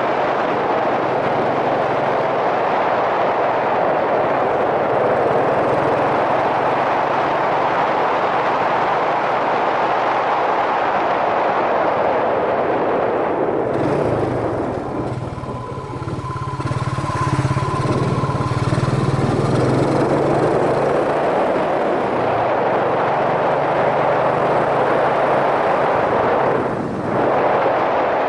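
Wind rushing over a helmet-mounted microphone on a moving Yamaha SRX400, with the low, steady note of its single-cylinder four-stroke engine underneath. About halfway through, the wind noise eases for several seconds and the engine comes forward, then the wind builds again.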